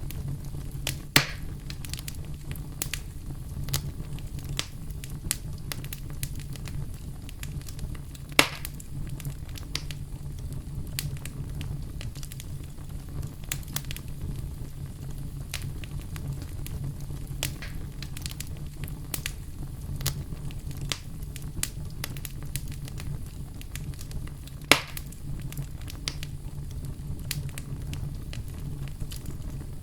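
Campfire crackling steadily over a low rumble, with frequent small snaps and three louder pops from the burning wood, about a second in, after about eight seconds and near the end.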